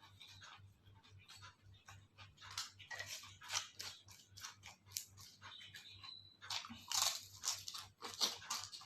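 A person chewing and crunching crisp food, with quick irregular crunches that grow louder in the second half.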